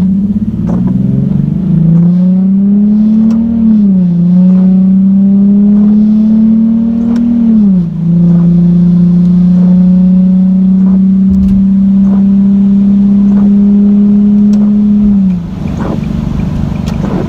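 Nissan 370Z's 3.7-litre V6 with a muffler delete on a full-throttle pull. The engine note climbs, drops sharply at upshifts about four and eight seconds in, then holds a nearly steady drone in the next gear before easing off near the end.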